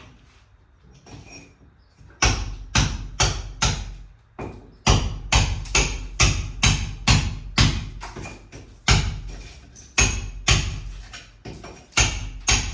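Repeated hammer blows in runs of several, about two a second, starting about two seconds in.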